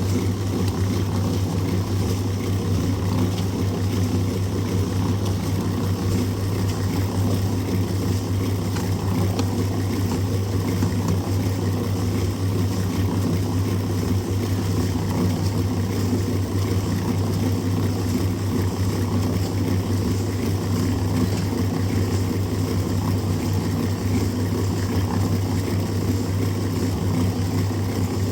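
Steady machine drone with a strong low hum, unchanging throughout, like an engine or motor running continuously.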